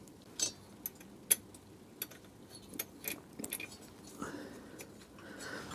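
Scattered light metallic clinks and taps, about one or two a second, from a motorcycle cylinder head and its fittings being handled as the head is pushed down over its studs.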